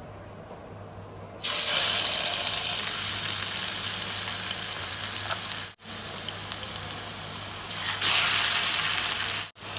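Raw chicken seekh kebab laid into hot oil in a non-stick frying pan: a sudden sizzle starts about a second and a half in and slowly settles. A second kebab going into the oil near the end brings a fresh, louder surge of sizzling.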